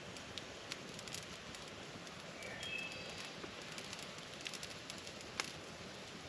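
Wood campfire crackling: scattered sharp pops over a steady hiss, with one louder pop near the end. A few short high chirps come near the middle.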